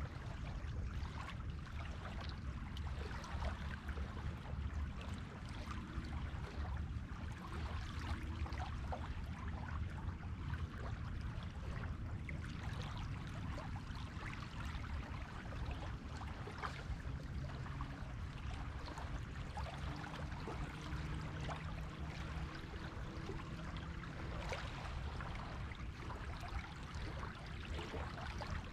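Steady beach ambience of shallow water washing at the shore, with a low rumble underneath and a fine crackle of water over sand and stones. A faint low hum comes and goes in the second half.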